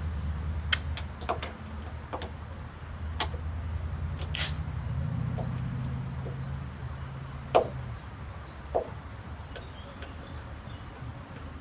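Hand work taking a car apart: scattered sharp clicks and knocks of parts and fasteners being handled, the loudest two about seven and a half and nine seconds in, over a low steady hum.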